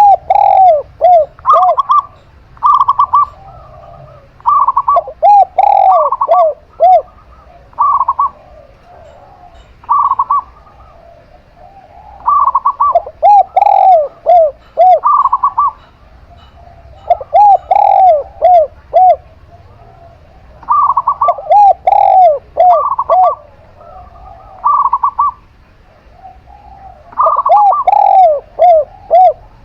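Zebra dove (perkutut) and spotted dove (tekukur) cooing in repeated phrases. Each phrase has runs of short, quick, arched coos mixed with clearer, higher held notes, and the phrases come every few seconds.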